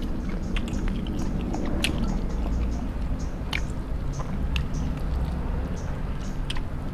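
Close-up eating sounds: a mouthful of steamed chicken being chewed and the meat torn apart by hand, with small wet clicks scattered throughout, over a low steady hum.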